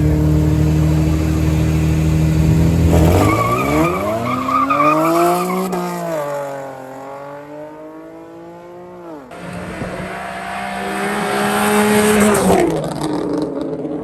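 Drag-race cars held at steady high revs on the start line, then launching about three seconds in and accelerating hard. The engine pitch climbs and drops back at each gear change, twice, before the cars pull away and fade near the end.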